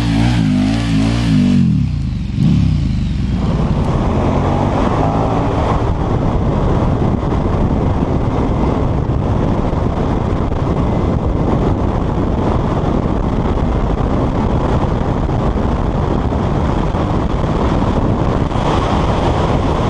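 KTM 1290 Super Duke R's V-twin engine revving, its pitch rising and falling for the first couple of seconds. After about three seconds the sound becomes a dense, steady noise from the running bike.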